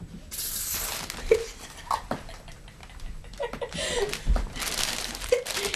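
Rustling and crinkling as a cat moves and rolls about in crinkly material, in two spells, the second near the end, with a few brief faint voice sounds between.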